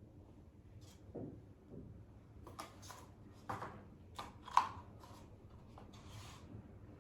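Several short rubbing and scraping sounds from objects being handled, with a sharp knock about four and a half seconds in.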